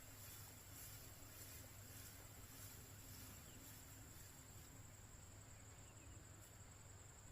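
Faint insect chorus: a steady, high-pitched chirring over quiet rural ambience.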